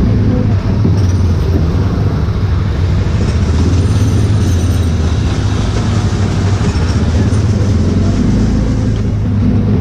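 Autopia ride car's small gasoline engine running steadily as the car drives along the track, a loud, even low drone with road and wind noise, heard from on board.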